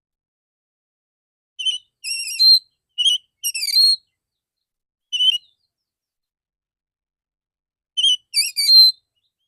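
Male Oriental magpie-robin singing loud, clear whistled phrases of quick notes that jump in pitch, in about four short bursts with silent pauses between them.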